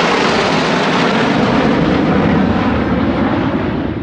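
Loud jet roar of a USAF Thunderbirds F-16 fighter passing close, holding steady and easing slightly near the end.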